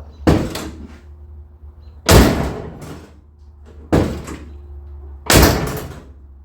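A vehicle door slammed shut four times, about every second and a half to two seconds, each slam ringing briefly. It takes hard closing because the new door seal is already fitted and resists the latching.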